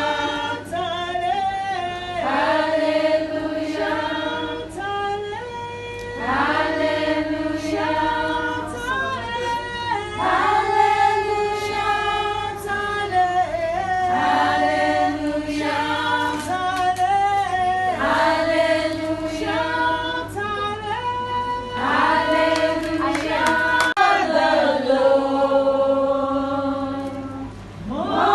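A group of voices singing a song, with long held notes.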